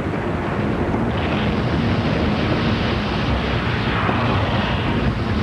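A slab avalanche of fresh snow sliding downhill, a steady rushing rumble with wind buffeting the microphone.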